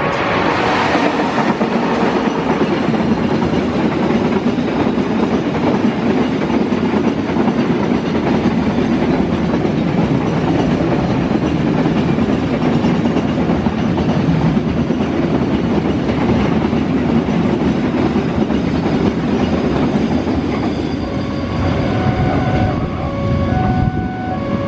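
A train passing close by over a level crossing: a loud, steady rumble and clatter of wheels on the rails throughout, with a brief louder rush about a second in. The crossing's electronic warning siren tones come back in near the end.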